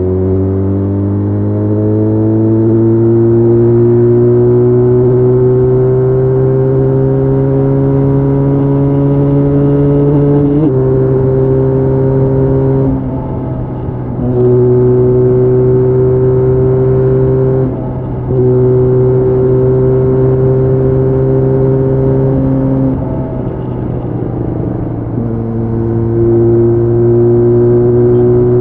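Benelli Leoncino 500 parallel-twin motorcycle engine under load. Its note rises steadily over about ten seconds, drops slightly as it shifts up, then holds a steady cruising pitch. Three times the engine note briefly falls away and comes back at the same pitch.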